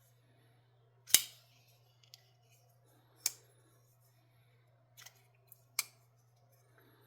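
Sharp metallic clicks and snaps from handling a folding pocket knife, a few separate clicks with the loudest about a second in, over a steady low hum.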